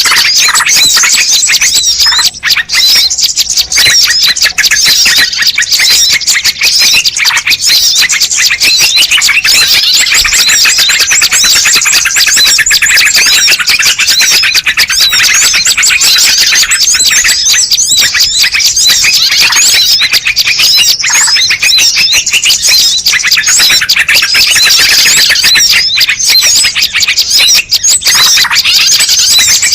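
Bird-lure recording: a dense, continuous chorus of rapid high-pitched chirps and trills from many small birds calling over one another, with no pause.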